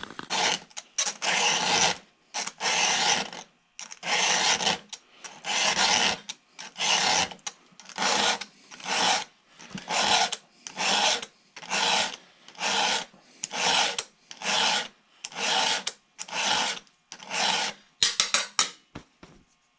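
A 3/16-inch round file being pushed by hand across a .325 chainsaw chain cutter, in steady rasping strokes about one a second with short pauses between them. A lot of metal is coming off because the tooth was badly damaged.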